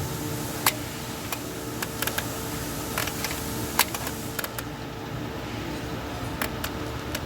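Scattered light clicks and taps of hand tools at irregular intervals, about nine in all, over a steady background hum.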